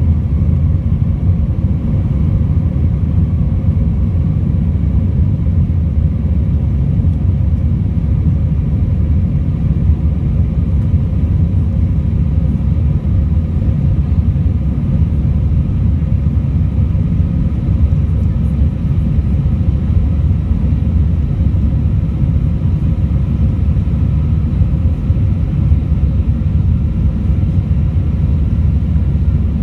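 Cabin noise of an Airbus A319 on the move: a steady low rumble of the jet engines and airflow, with faint whining tones above it.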